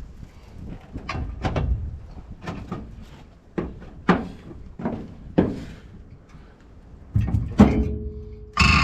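Irregular knocks and clanks of steel fifth wheel hitch parts being handled and fitted, about a dozen over the stretch, one near the end ringing briefly. A louder clatter closes it.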